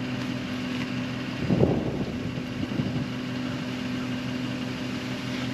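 An engine idling steadily, with a brief louder noise about a second and a half in.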